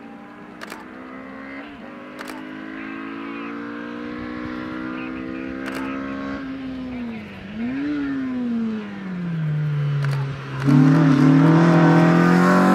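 Race car's engine approaching under power in an auto slalom. Its revs climb slowly, then drop with one brief blip and fall further as it slows, and about two-thirds of the way in it revs up sharply and passes loud and close.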